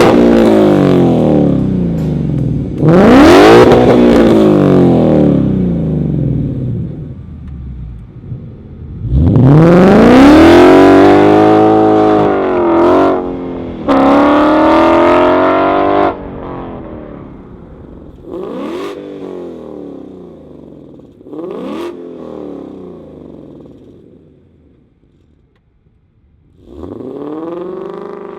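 Ford Mustang GT's 5.0-litre V8 through long-tube headers and a 3-inch stainless catback with Varex mufflers, accelerating hard in a run of separate bursts: the revs climb and drop over and over, several bursts end suddenly, and the later ones are fainter, with a near-quiet stretch shortly before the end.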